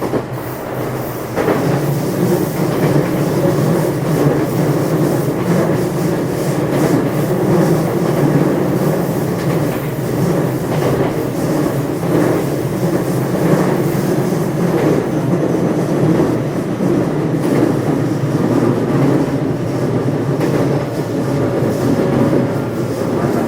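Running noise of a JR West 227 series electric multiple unit, heard from inside the motor car KuMoHa 227-7: a steady rumble from wheels and running gear, with wheels clacking over rail joints now and then. It comes up to full loudness about a second and a half in.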